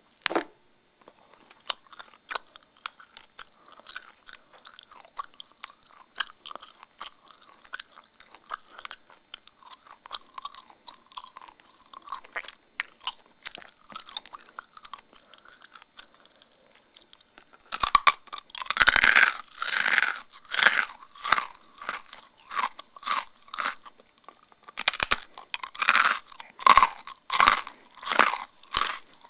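A person's mouth chewing: at first faint wet lip and tongue clicks, then, past the middle, loud crunching of crumbly dry food at roughly two chews a second, with a short pause before a last run of crunches.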